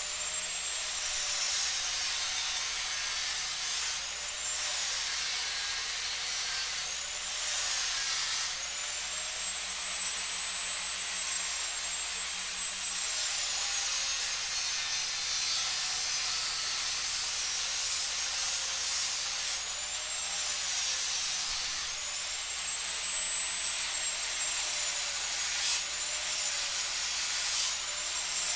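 Electric power tool running continuously with a strong hiss, its motor pitch dropping and recovering every few seconds as it is pressed into the work.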